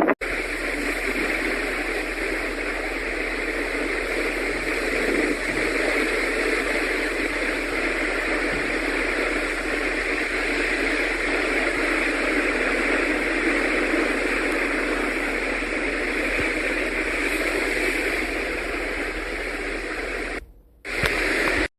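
A steady, even rushing noise with a faint low hum underneath. It cuts out briefly near the end.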